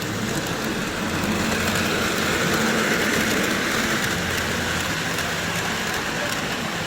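Lionel model trains running on the layout's track: a steady rumble and whir of wheels and motors, which grows louder through the middle as a train passes close and then eases off.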